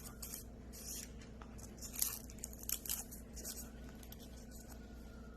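Faint, intermittent rustling and crackling of hands working cornstarch into the sticky glue of a glue trap, with short sharper crackles about two and three seconds in.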